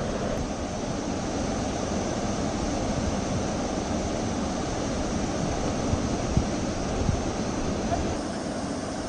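Steady rush of a waterfall, with wind buffeting the microphone in a few low thumps around six to seven seconds in.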